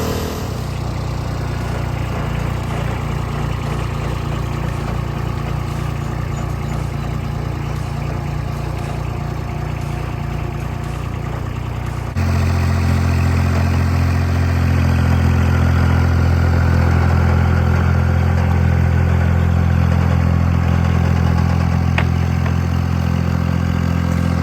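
An engine running steadily, with no change in speed. About twelve seconds in it switches abruptly to a louder, lower engine sound.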